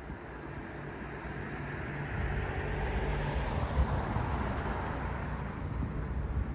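A motor vehicle passing on a city street: engine hum and tyre noise swell over a few seconds, then fade.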